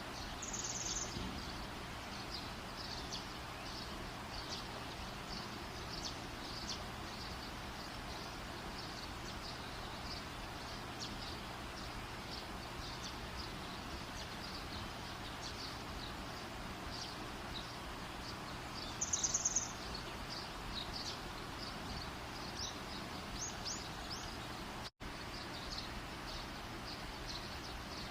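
Campfire burning with a steady hiss and frequent small crackles, while a bird gives two brief, rapid chirping trills, one about a second in and a louder one in the middle. The sound drops out for a split second near the end.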